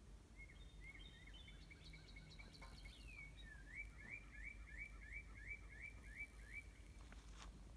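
A songbird singing faintly: a few high chirps, then a quick run of about ten repeated, rising notes.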